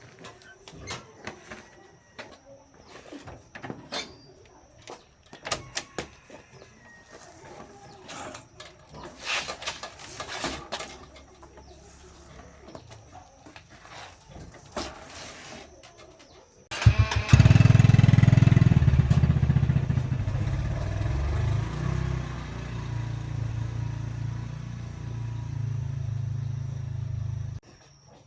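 Scattered knocks and clicks of handling, then a small engine starts abruptly with a brief stutter. It runs loudly for about ten seconds, easing slightly, and then stops suddenly.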